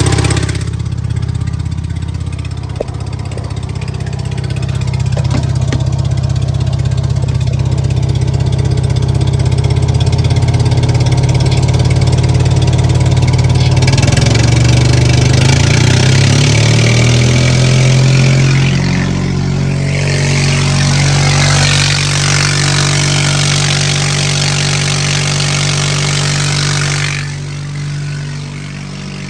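Bobcat 732 skid steer's carbureted engine running steadily. About halfway through its speed wavers and then climbs, under a loud hiss that stops shortly before the end. The owner calls the governor on this engine messed up, with a loose belt and a shaft that shifts in and out.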